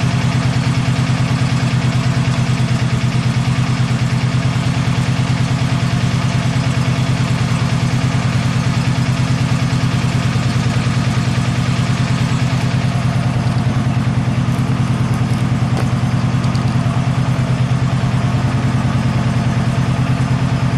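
The freshly rebuilt Kohler engine of a Hustler Super Z zero-turn mower running steadily at an even speed, with a fast, even pulsing beat.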